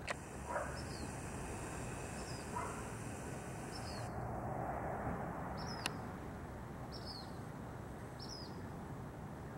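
Black phoebe giving short, sharp chip calls, six of them at an even pace of about one every second and a half, each a quick high note that drops in pitch.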